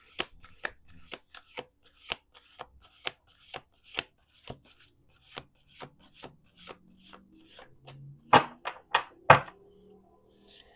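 A deck of oracle cards being shuffled by hand: a steady run of sharp card snaps, about two to three a second, with a few louder slaps near the end.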